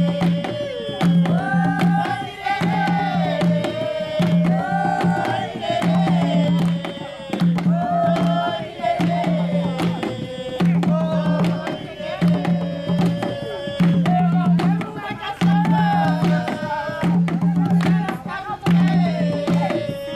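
Jongo song: a sung melody over hand drums, with a low booming drum note recurring about every second and a half and sharper strokes between.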